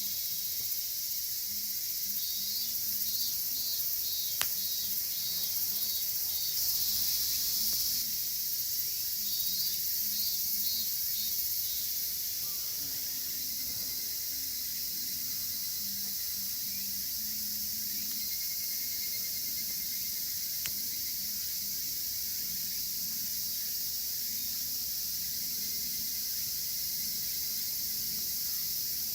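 A dense chorus of cicadas makes a steady high-pitched drone. Twice in the first half a higurashi (evening cicada) calls with a rapid pulsing trill. A wood fire burns, with two sharp single snaps.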